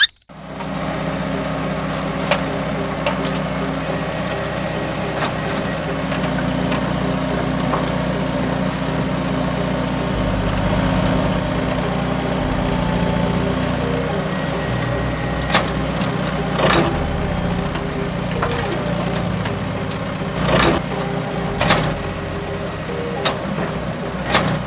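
A small engine running steadily at idle, with a few sharp knocks in the second half.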